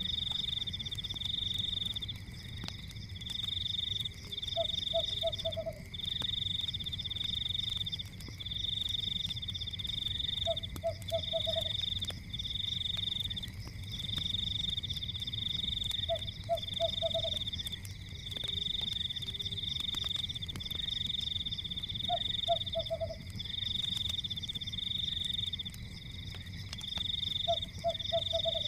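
Night frog and insect chorus: a high trill repeats in bursts of about a second over a steady high drone. Every six seconds or so a lower frog croak of three or four quick pulses sounds. Underneath runs a low rumble with faint scattered crackles.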